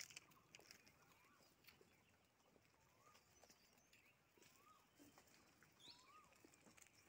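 Faint, repeated bird call: a short whistled note that rises and then falls, about once every second and a half, with a few higher chirps between. Scattered soft clicks and crackles sit under it.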